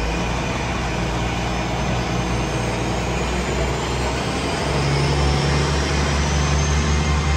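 Great Western Railway Hitachi bi-mode intercity train pulling away from the platform: a low, steady engine drone that grows louder about five seconds in, with a faint high whine slowly rising in pitch as the train gathers speed.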